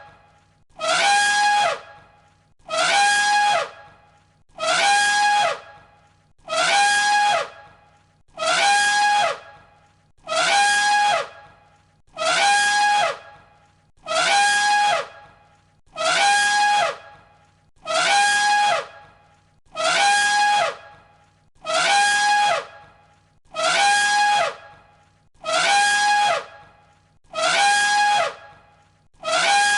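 Elephant trumpeting: the same short trumpet call repeats about every two seconds, each call falling slightly in pitch.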